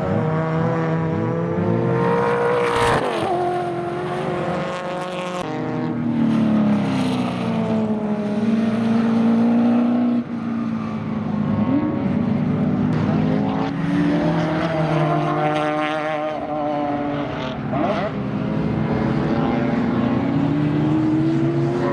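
Race car engines at speed: several cars' engines rising and falling in pitch through gear changes and braking, with one car passing close about three seconds in.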